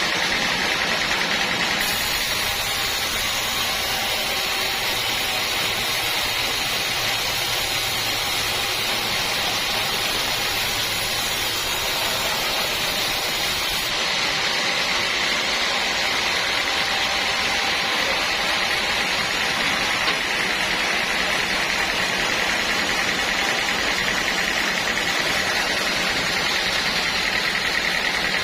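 Sawmill machinery running steadily, an even mechanical drone with a constant high whine.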